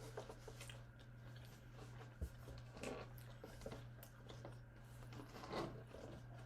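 Faint chewing and wet mouth sounds of a person eating, with scattered small clicks and a soft knock about two seconds in.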